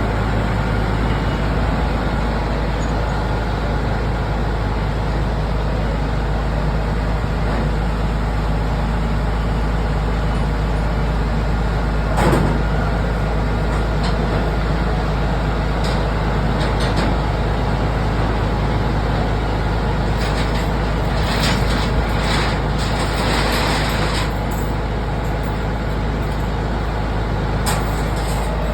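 A heavy road vehicle running with a steady low rumble. A single sharp knock comes about twelve seconds in, and a run of short hissing bursts follows between about twenty and twenty-four seconds.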